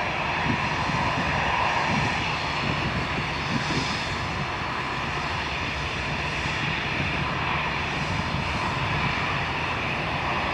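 Airliner engines running steadily: a broad rushing noise with a high whine on top.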